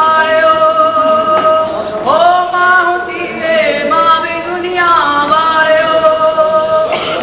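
A singer holding long drawn-out notes, sliding up into each one, in a wordless stretch of a Punjabi song.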